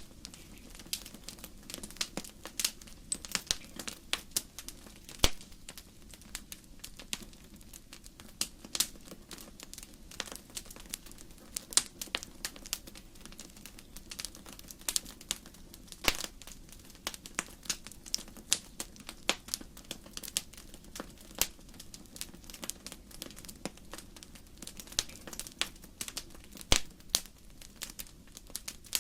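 Wood fire burning in a fireplace: firewood crackling with many sharp, irregular pops and snaps, some louder than the rest, over a low steady rumble of the flames.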